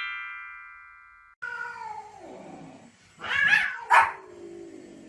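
A chiming transition tone fades out over the first second and a half. Then a dog vocalizes: drawn-out whines that slide down in pitch, and two short sharp barks about three and four seconds in.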